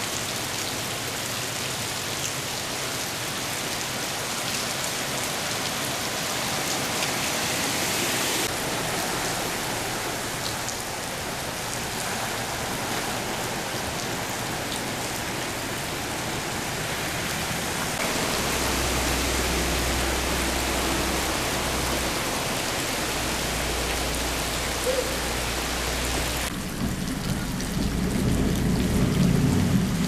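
Heavy rain falling steadily. About two-thirds of the way through, a low hum joins it. Near the end the sound changes abruptly to a lower rumble.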